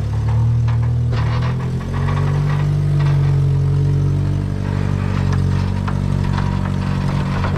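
Off-road 4x4's engine running at low, slowly varying revs while crawling, with scattered light clicks and knocks over it.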